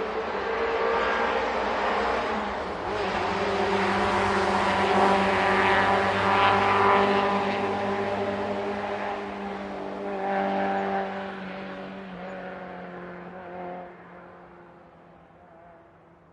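Opel Ascona A rally car passing at a distance under power. The engine note builds to its loudest about five to seven seconds in, picks up again briefly around ten seconds, then fades away as the car goes off.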